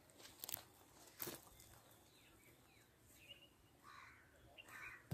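Near silence outdoors: a few faint bird chirps in the second half, and a couple of faint crunches early on.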